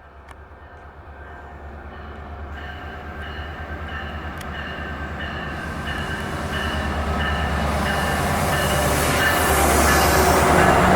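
Diesel train approaching, its low rumble getting steadily louder, with a thin high-pitched squeal from the wheels coming and going.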